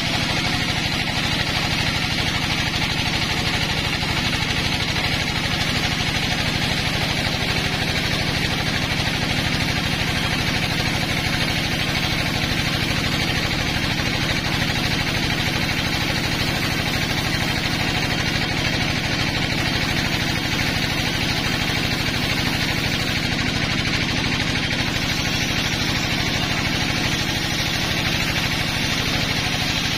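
Sawmill engine running steadily, a constant drone with an even hiss above it and no change in load.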